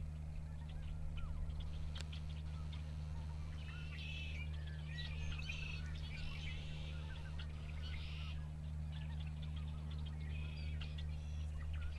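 A flock of red-winged blackbirds calling together, many overlapping chirps and buzzy trills that thicken around the middle and again near the end, over a steady low hum.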